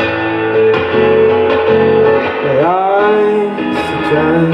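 Acoustic guitar strummed in a live song, with a man singing a long held note that dips and then slides up in pitch about two and a half seconds in.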